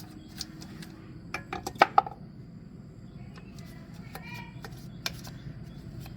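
A few sharp metallic clinks and taps of hand tools and metal parts being handled. The loudest two come close together about two seconds in, over a low steady hum.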